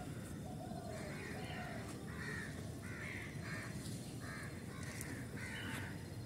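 Birds calling outdoors: a run of short, repeated calls, roughly one or two a second, over a steady low rumble.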